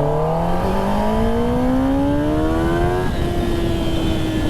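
Kawasaki ZX10R's inline-four engine accelerating hard, its note climbing steadily, then dropping sharply about three seconds in as it shifts up and holds a lower, steady note.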